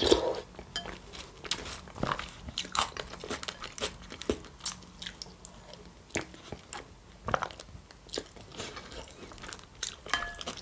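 Close-miked eating: chewing with irregular crunchy bites, short crisp clicks every half second to second or so.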